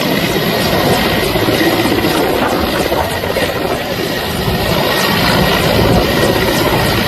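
Helicopter running loud and steady, its rotor chopping rapidly with a thin high whine held over it.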